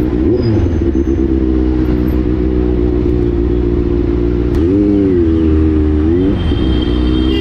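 Benelli 600i motorcycle's inline-four engine running steadily under way. Its pitch drops for about a second and a half just past the middle, then climbs back.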